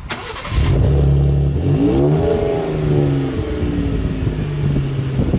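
Engine revving sound effect: a sharp hit at the start, then a steady low engine note with one rev that climbs and falls back about two seconds in.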